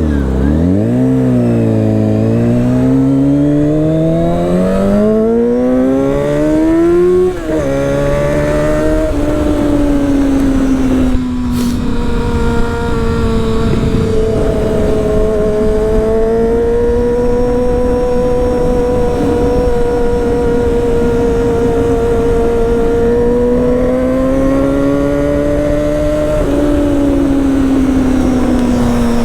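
Honda CBR600's inline-four engine pulling up through the revs for several seconds, briefly dropping at a gear change, then running at a fairly steady cruising speed with gentle rises and falls. Steady rushing noise underneath, and one sharp knock about eleven seconds in.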